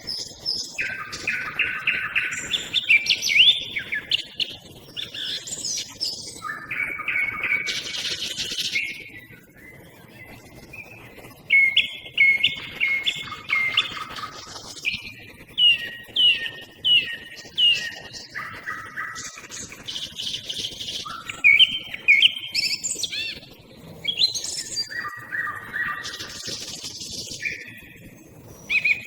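Song thrush and nightingale singing in a vocal duel. Phrases of sharply repeated notes and rapid trills follow one another with brief pauses, and other small birds such as tits call in the background.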